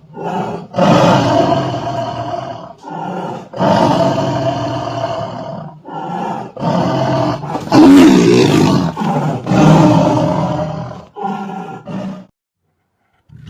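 Tiger roaring in a long series of about ten calls, some short and some over a second long, with brief pauses between them. The calls stop shortly before the end.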